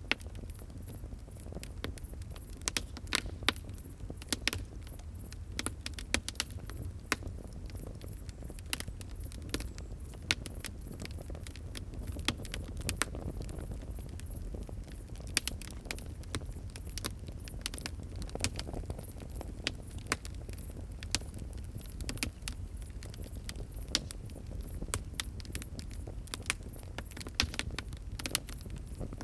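Wood fire crackling, with irregular sharp pops and snaps scattered over a steady low rumble of burning.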